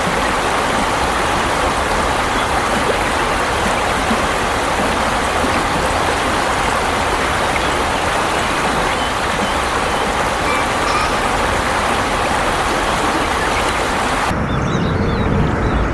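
Steady rush of flowing water, an even hiss with no distinct strokes. About a second before the end it cuts abruptly to a lower rumble.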